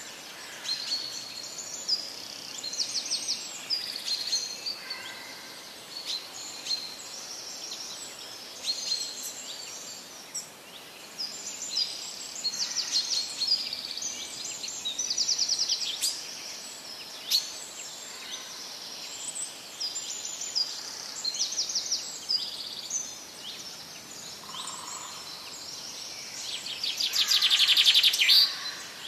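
Small songbirds chirping and trilling: many short high calls and quick trills come one after another, over a faint steady hiss. The loudest, a dense fast trill, comes near the end.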